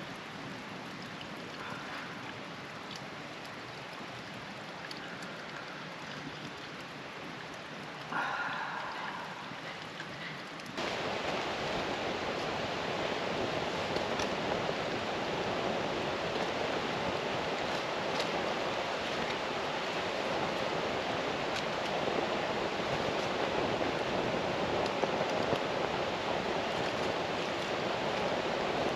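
Steady rush of flowing water, like a river stream. It jumps louder about eleven seconds in, after a short, louder sound about eight seconds in.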